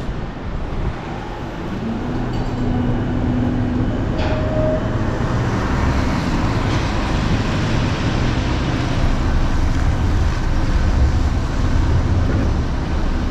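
Street traffic: a steady low rumble of passing vehicles, getting a little louder after the first couple of seconds, with a held low tone briefly and a short higher tone about four seconds in.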